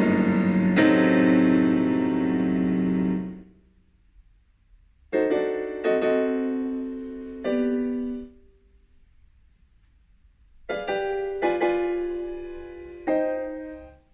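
Background piano music: slow phrases of a few chords, each left to ring and fade, with short silent pauses between them.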